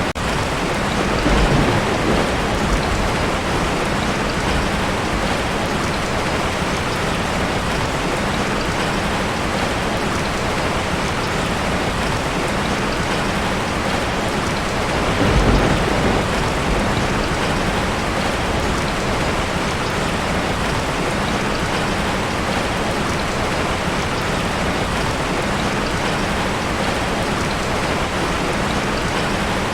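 Heavy rain beating steadily on a metal tin roof, with two low rolls of thunder, one about a second in and one about halfway through.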